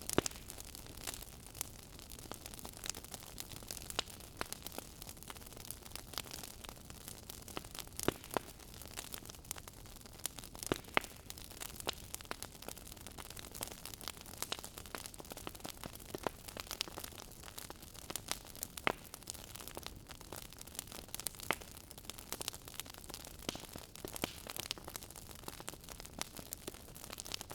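Wood fire crackling in a fireplace: frequent irregular sharp pops and snaps over a soft steady hiss.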